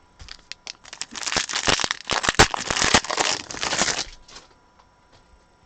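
A trading card pack's wrapper being torn open and crinkled by hand, a dense crackling lasting about three seconds that fades out near the middle.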